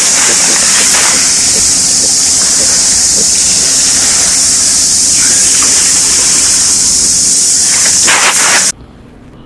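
Loud, steady rushing of floodwater pouring and splashing along, which cuts off abruptly near the end.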